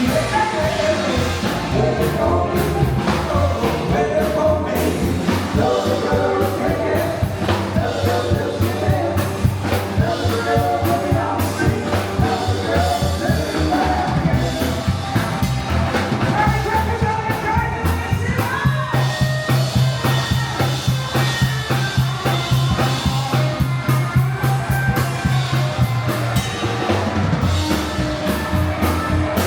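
Rock and roll band music with drums, guitar and a steady bass line.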